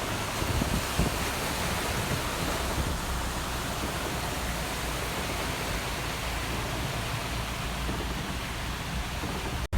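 Heavy rain pouring down, a steady even hiss with no let-up, cutting off abruptly near the end.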